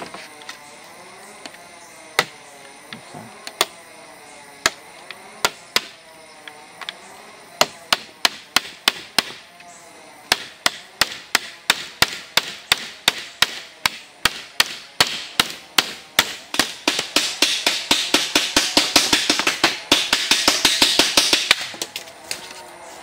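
Repeated sharp blows on wood, scattered at first and then settling into a steady run of about two a second that quickens near the end. A hiss swells up under the blows for a few seconds near the end.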